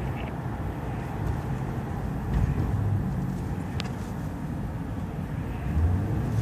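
Car cabin noise while driving: a steady low engine and road rumble, with a single brief click about four seconds in and the engine hum growing louder near the end.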